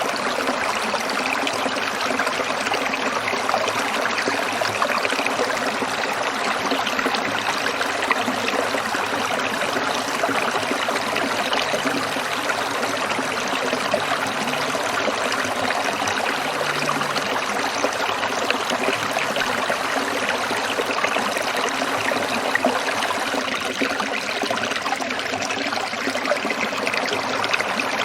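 A small stream trickling and splashing steadily over stones.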